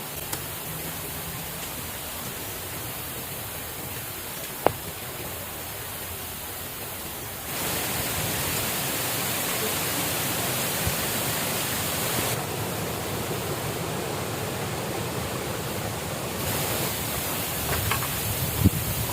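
Steady rushing of water, a continuous even hiss, with one sharp knock a few seconds in and a few light knocks near the end.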